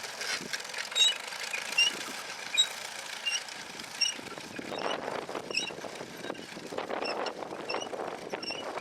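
1920s John Deere Hoover potato planter working, its mechanism clattering with a short high squeak repeating about every two-thirds of a second.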